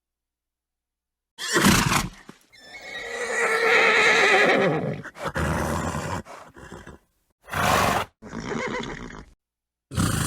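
Horse neighing: a long wavering whinny that drops in pitch at its end, with short noisy snorts before and after it. The calls are separated by brief cuts to dead silence.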